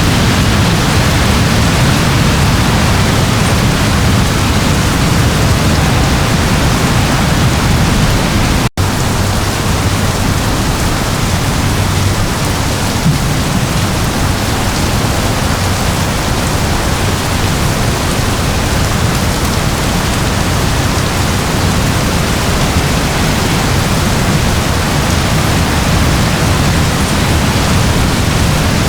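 Steady rain, an even dense hiss with a low rumble underneath, broken by a split-second dropout about nine seconds in.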